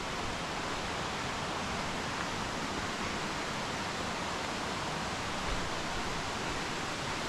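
Steady rushing of flowing water from a mountain trout stream, an even hiss without breaks or changes.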